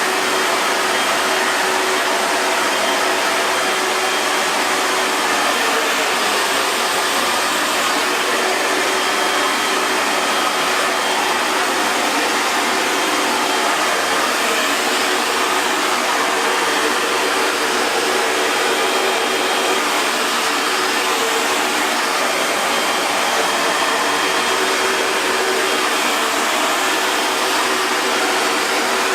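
Hair dryer running steadily: a constant rush of blown air with a faint motor hum underneath.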